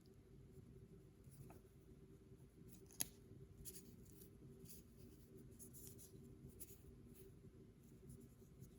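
Faint, scratchy rustling of packaging being handled in short strokes, with one sharp click or snip about three seconds in.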